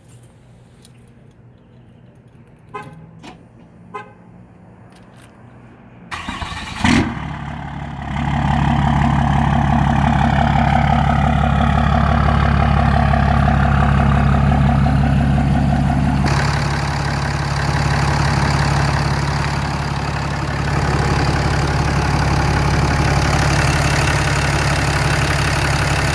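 A 6.7 Cummins diesel cranks and catches about six to seven seconds in, then runs steadily through a straight-piped exhaust, with the whistle of a BD Iron Horn S364.5 turbo over the engine note. The sound turns more hissy about halfway through.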